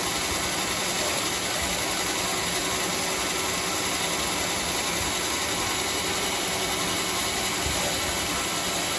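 Homemade bandsaw sawmill running with a steady, even mechanical noise.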